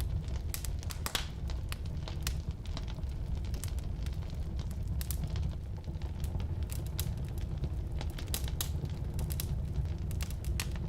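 Firewood burning in a fireplace: a steady low rumble of the flames with frequent irregular sharp crackles and pops.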